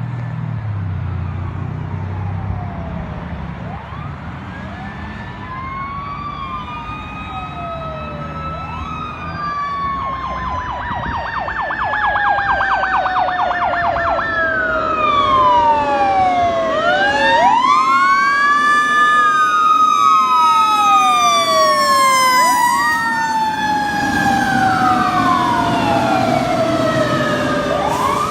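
Fire truck responding with its sirens on: a Federal Q mechanical siren winding up and coasting down, layered with an electronic wail that switches to a rapid yelp for a few seconds about ten seconds in, over diesel engine rumble. The sirens grow louder as the truck comes close, loudest about two-thirds of the way through.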